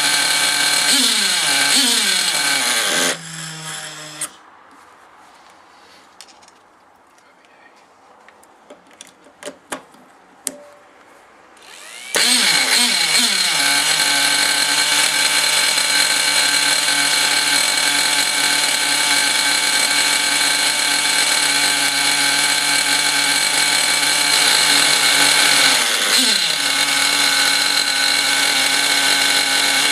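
O.S. Max nitro two-stroke model engine running on a rich needle setting while being broken in. Its pitch drops and it stops about three seconds in, followed by several seconds of quiet with a few sharp clicks. It starts again near the middle and settles into a steady high-pitched run, with a brief dip in speed near the end. It runs rough, which the owner blames mostly on two-year-old fuel and an exhaust not suited to the engine.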